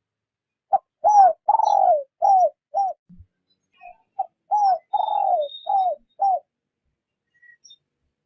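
Spotted dove cooing its soft decoy call: two phrases of about five coos each, every coo sliding down in pitch, with a longer drawn-out coo second in each phrase. Faint high chirps of small birds sound above it.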